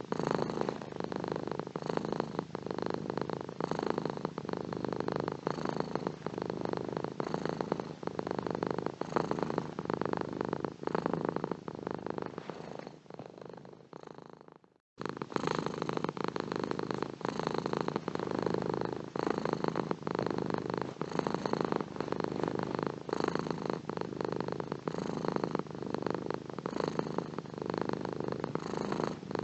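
Domestic cat purring steadily and close up, a fast rumbling pulse. The purr fades away about halfway through, stops for a moment, then starts again at full strength.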